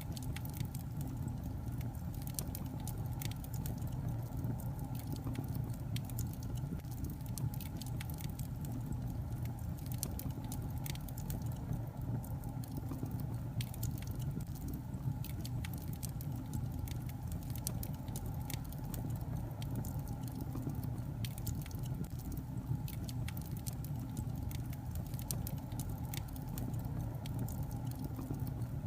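Wood logs burning in a fireplace: frequent, irregular sharp crackles and pops over a steady low rumble of the flames.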